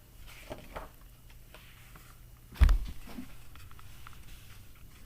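Paper rustling as a picture book is handled, with one sharp, dull knock about two and a half seconds in, the loudest sound here.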